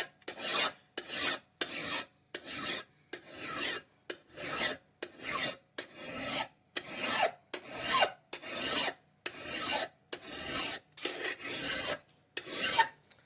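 Hand file rasping along the edge of a rusted axe head in steady, even strokes, about two a second, cutting through the rust to flatten and shape the edge. The strokes stop shortly before the end.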